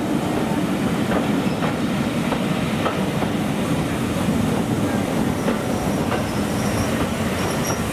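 Train of passenger coaches rolling slowly past a platform: a steady rumble with irregular clicks of wheels over the rail joints. A faint high wheel squeal comes in during the last couple of seconds.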